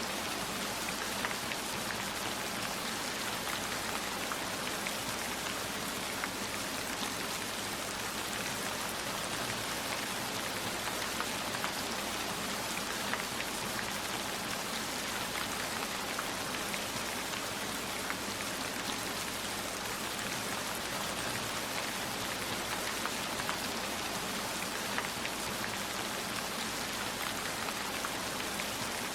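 Steady heavy rain falling, an even hiss with scattered sharper raindrop ticks.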